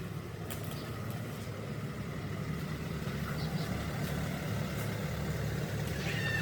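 Restored high-pressure car washer's motor and pump running steadily with an even low hum.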